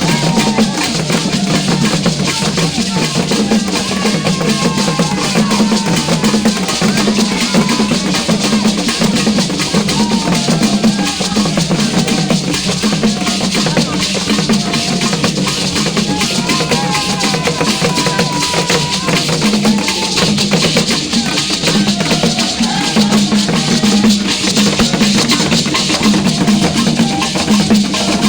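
Drum-led percussion music with shakers or rattles, dense and steady, with short gliding tones sounding now and then above it.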